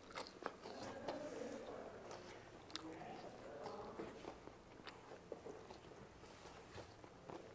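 Faint biting and chewing of crispy fried chicken, with scattered sharp crunches.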